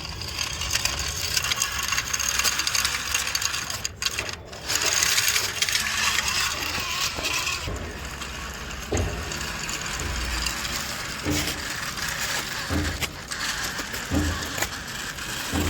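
Plastic toy vehicles rattling and scraping, with a few soft knocks about every second and a half in the second half.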